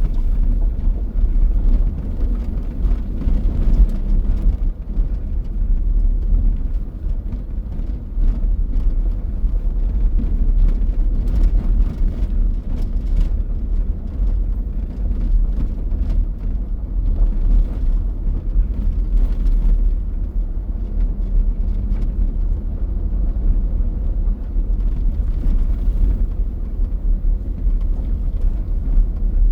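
A vehicle driving off-road on a rough track: a steady low rumble of engine and tyres, with scattered light knocks.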